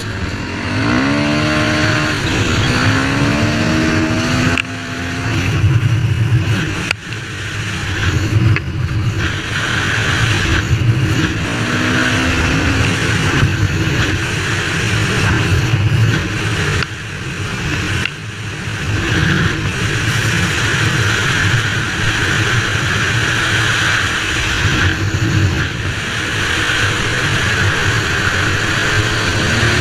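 Honda CR125 two-stroke single-cylinder motocross engine running hard, revving up in rising sweeps about a second in and again around twelve seconds, otherwise held at a steady high pitch. The engine is being broken in.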